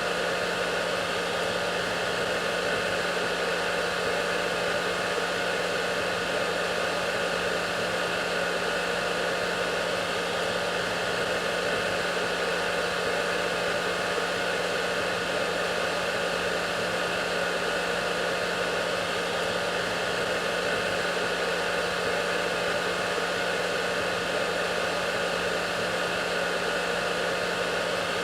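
Hair dryer running continuously: a steady rushing blow with a constant motor hum underneath, unchanging throughout.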